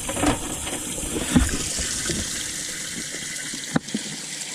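Steady rush of running water, with a few low thumps early on and one sharp knock near the end.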